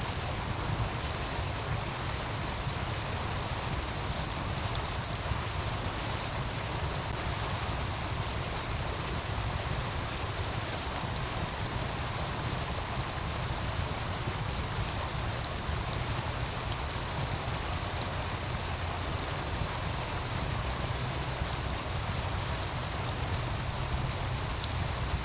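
Wood fire crackling with scattered sharp pops, one louder near the end, over the steady rush of a meltwater stream.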